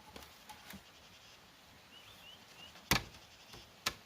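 Two sharp knocks about a second apart, the first the loudest, with a few lighter clicks before them and faint bird chirps.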